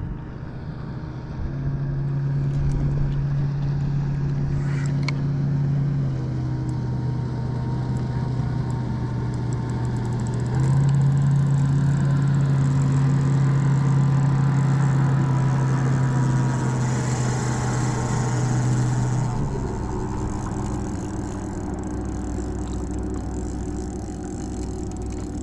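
A boat motor runs close by with a steady hum. Its pitch steps up and down several times, then it stops about nineteen seconds in, leaving water and wind noise.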